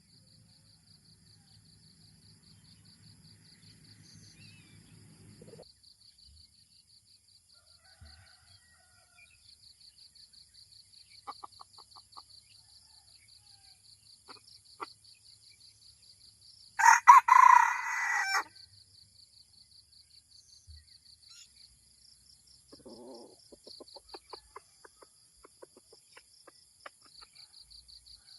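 Red junglefowl cock crowing once, a short loud crow over halfway through, with a few soft clucks around it. Insects buzz steadily throughout.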